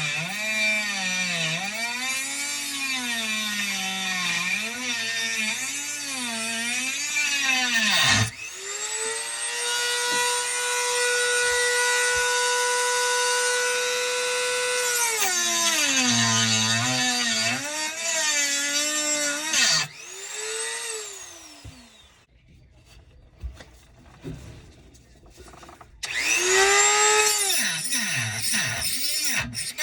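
Handheld electric power cutting tool cutting the rusted metal mounting band of an old garbage disposal. The motor's pitch dips and wavers as it bogs under load, runs steadily at full speed for several seconds, winds down about two-thirds of the way in, and starts up again after a short pause.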